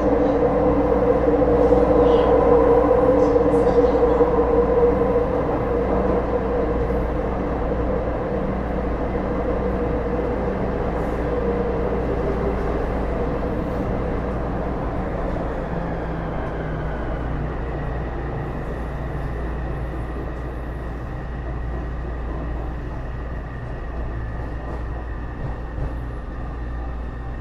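Taipei Metro C301 metro car running, heard from inside the car: wheel and rail noise at speed, with a Bombardier IGBT-VVVF traction motor tone. In the second half the tones fall in pitch and the noise eases as the train slows.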